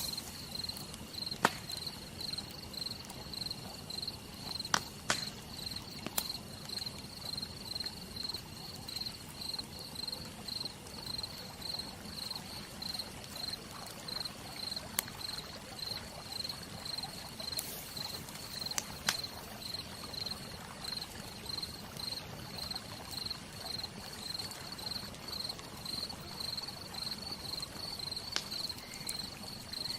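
Campfire crackling, with a few sharp pops now and then, over a steady chirping of crickets at about two chirps a second.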